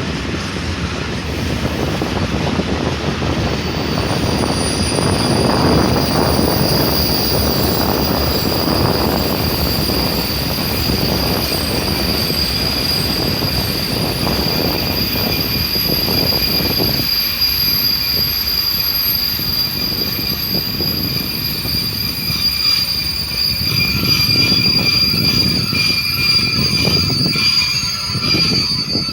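Passenger train running along the track, a continuous rumble of wheels and cars. From about four seconds in, a steady high-pitched squeal rides over it to the end.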